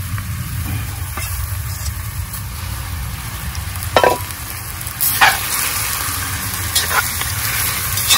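Raw chicken pieces sizzling as they hit hot lard and oil in a cast-iron Dutch oven, the sizzle growing stronger partway through as they are stirred. A metal clank about four seconds in and a few lighter knocks come from the bowl and fork against the pot.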